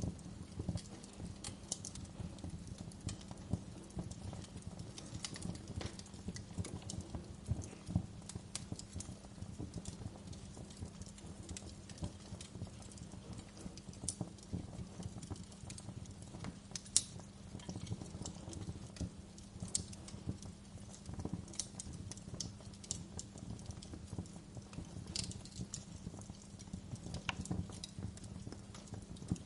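Wood fire in a fireplace crackling, with irregular small pops over a steady low rumble and one sharper pop about seventeen seconds in.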